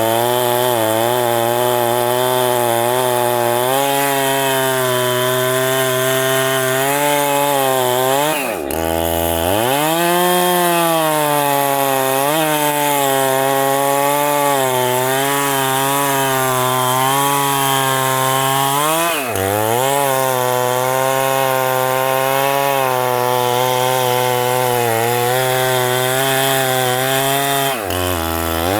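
Chainsaw running at high revs while cutting into a very thick tree trunk. Its engine pitch wavers under the load and drops sharply three times, about a third of the way in, about two-thirds in and again near the end, each time climbing back up, as the saw labours in the huge trunk.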